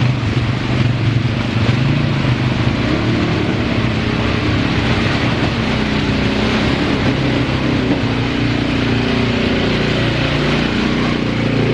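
ATV engine running steadily under throttle while the machine churns through water in a flooded ditch.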